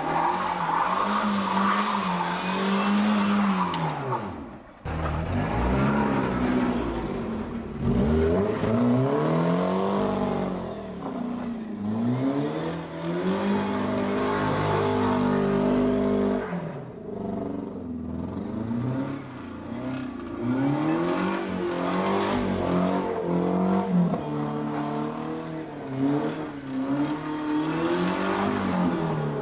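Car engine revving up and down again and again as the car drifts on snow with its wheels spinning; a short drop in sound about five seconds in. For most of the stretch the car is a BMW E36 sedan, and in the first few seconds it is another car.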